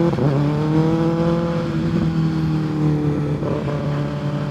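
Kawasaki ZX-6R 636's inline-four engine running under way, its note rising at first, then holding fairly steady. It breaks briefly about a quarter second in and again near the end.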